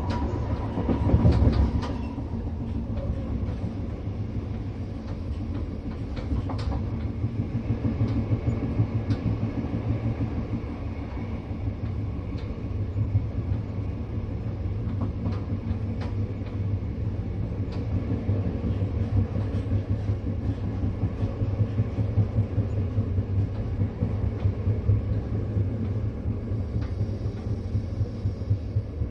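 Moving train running steadily along the track, with a continuous low rumble and scattered clicks of the wheels over the rails.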